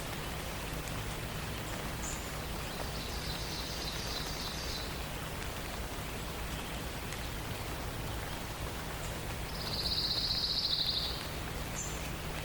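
A songbird sings a rapid, even, high trill twice: once about three seconds in and again, louder, near ten seconds. A few short high chips are heard as well, all over a steady hiss of forest ambience.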